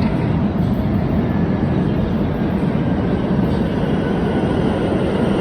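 New York City subway R train running with a steady loud rumble, a faint high squeal of steel wheels on the rails coming in about a third of the way through.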